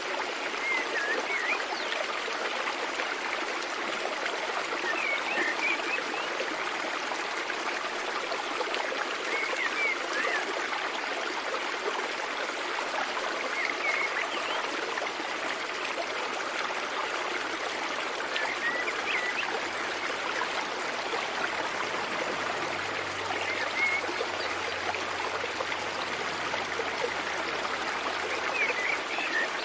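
Mountain stream flowing: a steady, unbroken rush of running water, with short high chirps about every four or five seconds.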